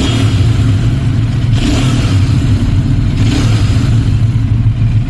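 Royal Enfield Super Meteor 650's parallel-twin engine running through its stock exhaust, a steady low exhaust note with two brief throttle blips, about one and a half and three seconds in.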